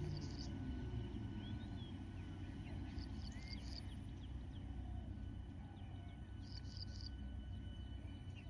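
Outdoor ambience: a bird repeats a short call of three or four quick high notes about every three seconds over a low steady rumble.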